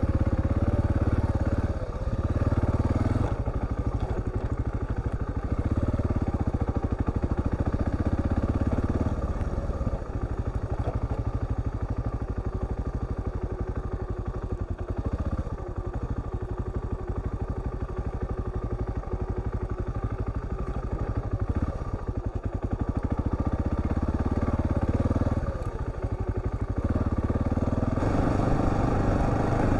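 Husqvarna TR650's single-cylinder engine running under way on a dirt track, its note dipping briefly several times as the throttle is eased and picking up again.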